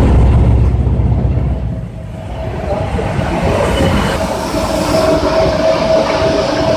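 Automatic carpet washing machine running: a loud mechanical rumble with rattling clatter, which eases about two seconds in, then a steady hum and a hiss come up from about four seconds on.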